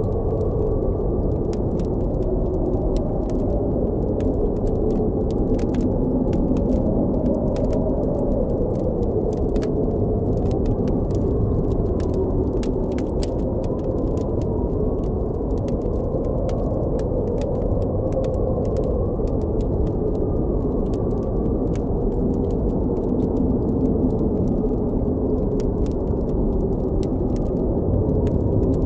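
Blizzard wind blowing steadily with a low howl that wavers in pitch, over a crackling campfire with frequent small sharp pops.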